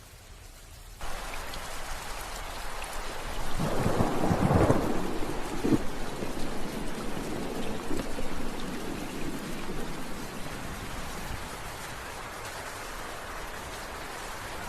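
Steady rain that cuts in abruptly about a second in, with a roll of thunder a few seconds later that swells and fades back into the rain.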